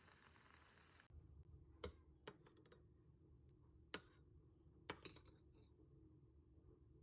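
A few faint, sharp clicks and light taps, spaced irregularly, against near silence.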